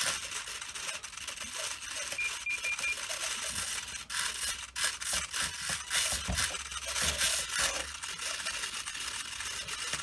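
Small RC servos rattling and clicking as the model's control surfaces move, with a quick run of four short beeps from the Spektrum radio transmitter about two seconds in.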